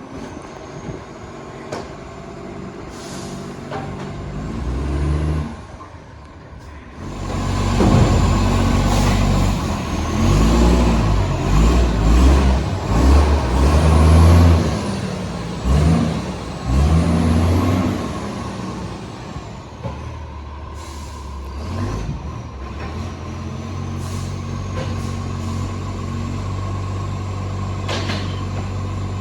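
Garbage truck's engine revving hard with a massive exhaust leak, rising and falling in pitch in several loud bursts for about ten seconds, then settling to a steadier run. A short air-brake hiss comes near the end.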